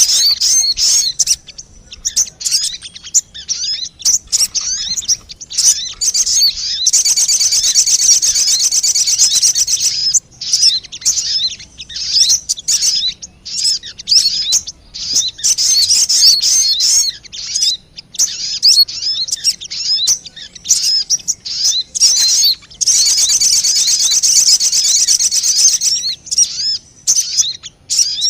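Sogon bird calls from a lure recording: quick, high chirps in rapid series, with two long dense trills, one about seven seconds in and one about twenty-three seconds in.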